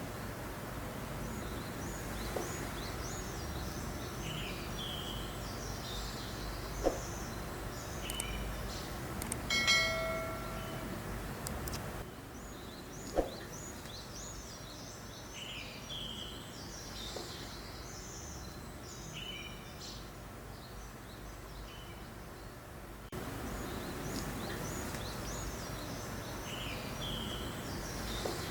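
Small songbirds chirping and twittering again and again over a steady soft rush of breeze. About ten seconds in, one brief call with a clear pitch stands out, and there are two sharp clicks, one a few seconds before it and one a few seconds after it.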